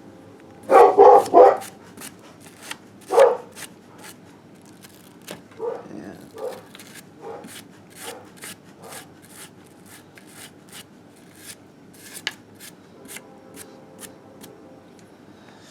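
A dog barks three times in quick succession about a second in and once more a couple of seconds later, then gives several softer barks. Short, sharp clicks repeat throughout, roughly two a second.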